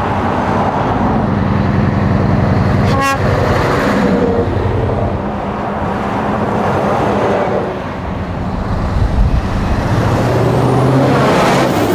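Heavy truck diesel engine running and revving, with a brief sharp burst about three seconds in. The engine eases off around eight seconds in, then builds again near the end.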